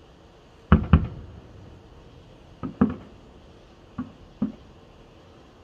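Distant aerial firework shells bursting: six sharp booms in three close pairs, each with a short rumbling tail, the first pair loudest.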